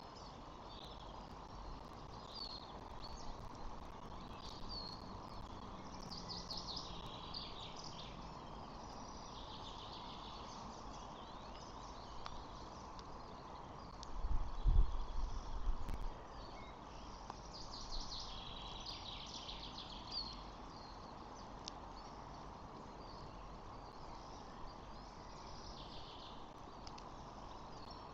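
Outdoor nest-cam ambience with a steady hiss and repeated short, high bird chirps. About halfway through there is a low rumbling thump lasting a couple of seconds.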